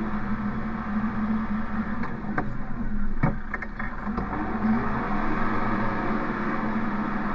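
Engine of the bale-loading machine running steadily, with a few sharp knocks between about two and four seconds in and a shift in the engine note about five seconds in.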